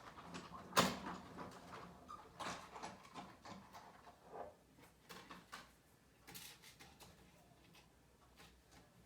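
Paper and card stock being handled on a work table: soft rustling with light taps and clicks, and one sharp knock about a second in.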